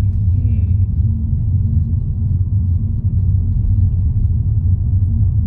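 Car driving along, its engine and road noise a steady low rumble.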